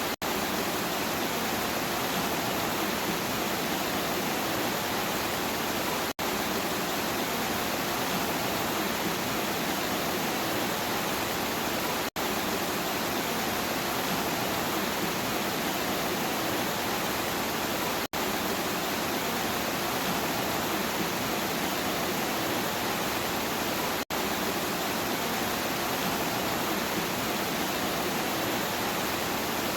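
Steady heavy rain: an even, constant hiss of falling water, cut by a very brief silent gap about every six seconds.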